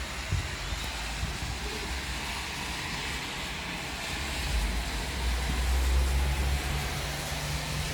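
Low rumble of thunder that swells about halfway through and then eases, over a steady hiss.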